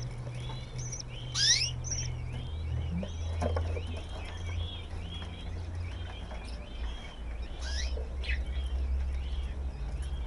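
A flock of budgerigars chattering: many short arched chirps repeating quickly, with a louder rising call about a second and a half in and another near the end. A low steady hum runs underneath.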